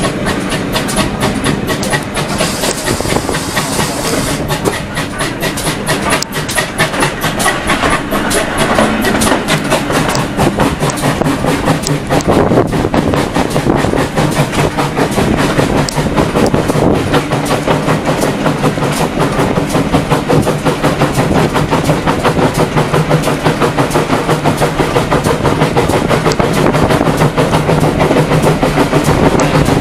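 Railway passenger carriage running along the track, heard through its open window: a continuous rumble with a steady rhythmic clatter of the wheels on the rails, getting a little louder after the first ten seconds or so.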